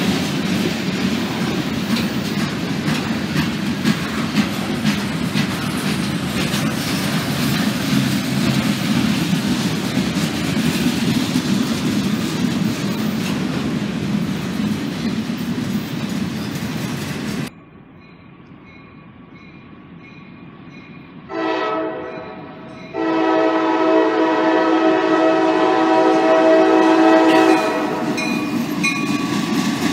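Freight cars rolling past close by: a steady rumble of steel wheels on rail with clickety-clack, cutting off suddenly a little past halfway. Then the air horn of an approaching CSX SD50-2 diesel locomotive sounds a chord, first a short blast and about a second later a long blast of some four seconds, as it nears a grade crossing.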